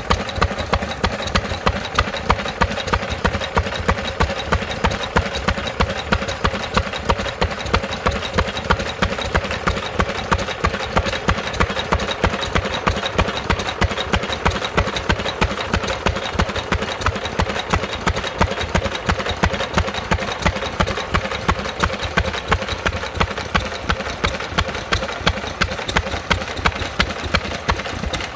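Lister stationary engine running steadily, with an even, regular knock of about two to three beats a second.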